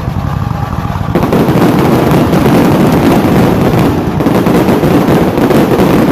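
Fireworks going off in a dense, rapid string of cracks and pops that jumps louder about a second in and keeps going.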